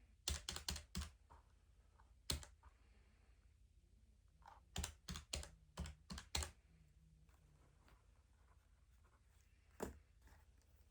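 Keys being pressed in short quick runs: a handful of clicks near the start, a single one, a run of about seven in the middle, and one more near the end.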